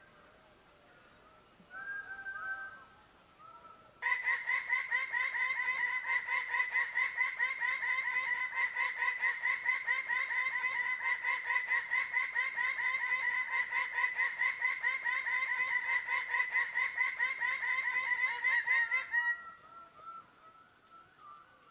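Bird calling. A few faint scattered calls, then about four seconds in a loud, fast chatter of repeated notes at one steady pitch that keeps going for about fifteen seconds and stops abruptly.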